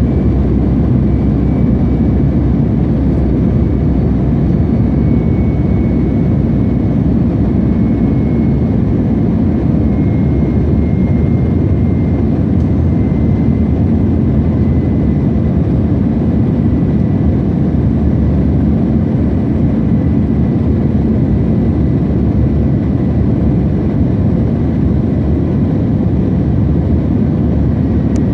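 Airbus A321 jet airliner engine noise, a loud, even low rumble that holds steady throughout, with a faint high whine drifting slowly lower.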